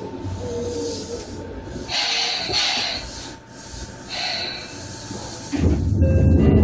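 Inside a Seibu 2000-series electric train car, MoHa 2375: train noise with two bursts of hissing air, the first about two seconds in and the second about four seconds in. Near the end a sudden, louder low rumble sets in, with a few steady tones over it.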